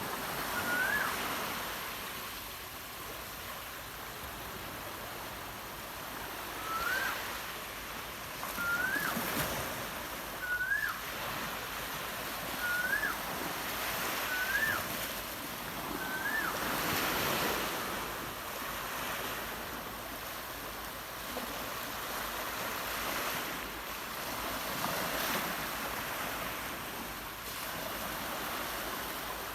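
A bird calling with short whistled notes that rise sharply in pitch, seven of them spaced a second or two apart, stopping a little past halfway. Steady surf noise runs underneath.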